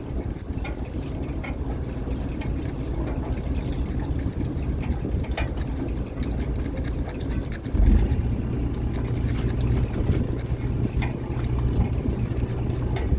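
A fishing boat's engine running steadily, with a low hum that steps up and grows louder about eight seconds in.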